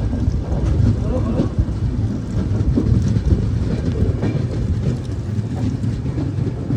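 Passenger train running along the track: a steady low rumble with scattered clicks and rattles.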